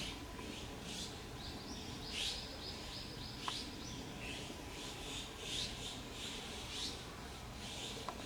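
Meerkats giving short, high-pitched chirps again and again, about one or two a second, with a longer stepped peep about two seconds in and a couple of sharp clicks.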